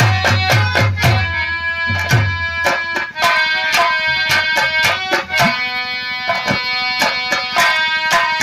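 Nautanki instrumental interlude: a harmonium plays a sustained melody over fast, dense drum strokes, some with low, sliding booms.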